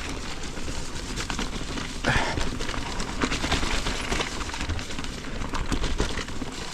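Mountain bike riding over a muddy trail: steady tyre and trail noise with frequent clicks and rattles from the bike.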